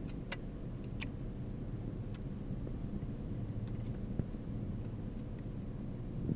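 Steady low hum of a car idling, heard from inside the cabin, with a few light clicks in the first second or so.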